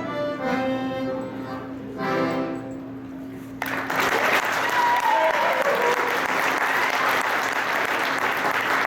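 Accordion-led Bavarian folk dance music plays its last bars, then an audience breaks into loud applause about three and a half seconds in.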